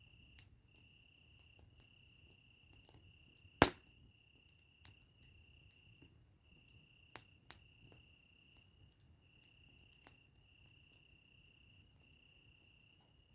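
Campfire crackling with scattered sharp pops, one much louder pop a few seconds in, over a steady high-pitched insect trill that repeats in short phrases.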